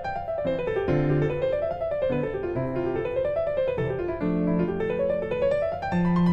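Background piano music: quick rising and falling runs of notes over held bass notes.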